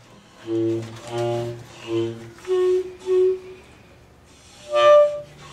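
A found-sound piece played on household objects: a run of short pitched notes, then a pause and a louder, higher note near the end.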